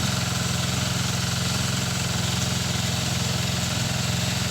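Engine running steadily at an even speed, a constant low hum with no change in pitch.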